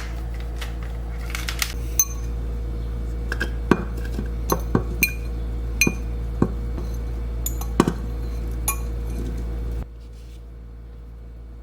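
Metal utensils clinking and tapping against a pot and dishes, a dozen or so sharp knocks with a short ring, over a steady low hum that cuts off about ten seconds in.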